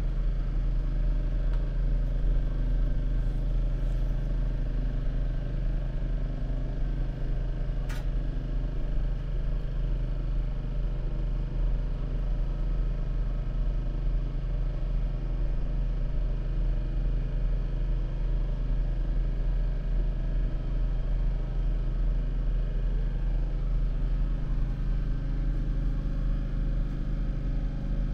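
Steady low drone and rumble of a diesel multiple-unit train, heard from inside the carriage as it runs. One sharp click about eight seconds in.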